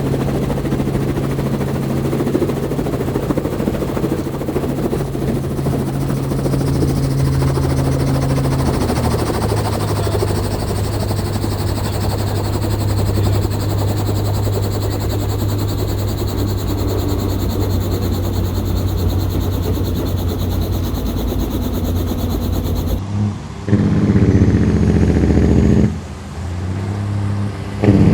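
Heavy truck diesel engines running steadily, the engine note dropping slightly about a third of the way in; near the end the sound changes abruptly to louder, closer engine running that breaks off briefly and resumes.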